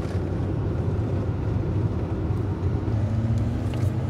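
Hemi V8 car engine and road noise heard from inside the cabin while cruising slowly at low revs: a steady low drone.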